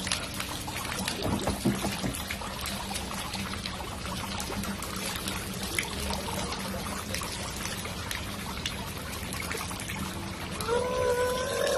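Water running and trickling steadily, as from a hose or tap during water play. A short voice-like call sounds near the end.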